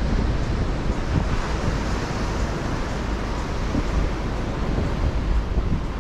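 Sea waves washing and breaking on a windy shore, with strong wind buffeting the microphone as a steady low rumble.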